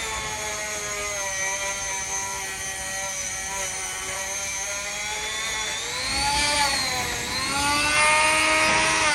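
Power tool spinning a thin wire brush to scour oxidation out of a motorcycle brake caliper. Its motor gives a steady whine that sags in pitch and wavers about six seconds in as the brush bites, then rises again.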